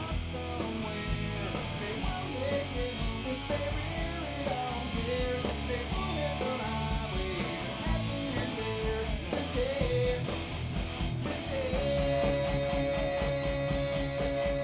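Rock music with electric guitar and drums, a lead line bending up and down, then a long held note starting about three seconds before the end.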